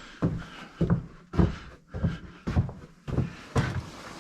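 Footsteps walking at an even pace, about two steps a second, each a short low thud.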